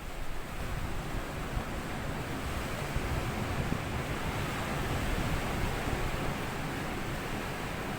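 Small sea waves washing up onto a sandy beach: a surging hiss and rush of water that builds just after the start and eases slightly toward the end.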